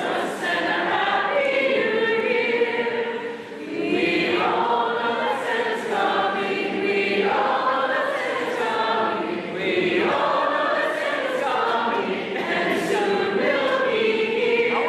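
Many voices singing a Christmas carol together in held notes, phrase after phrase, with a short breath break a little before four seconds in.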